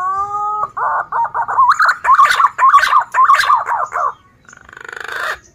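Male punai daun (green pigeon) singing: a rising whistled note, then a quick run of warbling, wavering whistles for about three seconds, ending in a breathier rising note near the end.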